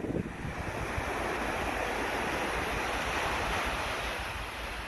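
Sea waves washing onto the shore: a surge of surf that builds about a second in and eases off near the end, with wind rumbling on the microphone.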